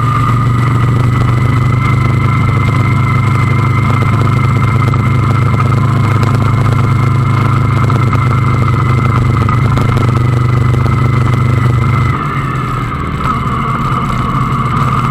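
Motorcycle engine running steadily while riding, with a steady low hum and higher whine. It eases off and gets quieter about twelve seconds in.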